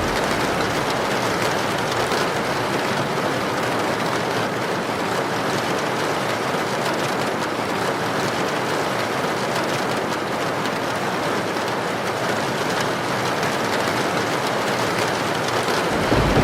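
Heavy rain falling steadily, a dense even hiss. A low rumble comes in near the end.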